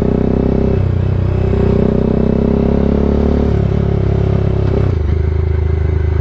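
Bajaj Dominar 400's single-cylinder engine running through an SC Project exhaust while riding. Its note shifts a few times and drops to a lower, steady pitch about five seconds in.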